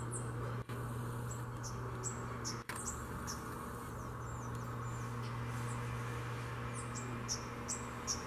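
Small bird giving short, very high chirps, repeated irregularly and coming more often in the second half, over a steady low hum.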